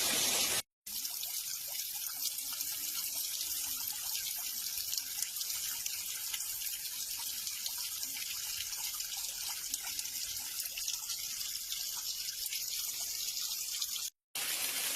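Small waterfall splashing and trickling steadily, with two brief dropouts to silence, about a second in and near the end.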